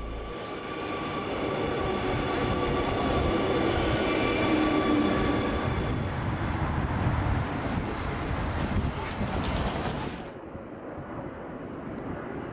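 Metro train running in a station: a steady rumble of wheels on rails with thin steady whining tones over it. About ten seconds in the sound turns duller and quieter.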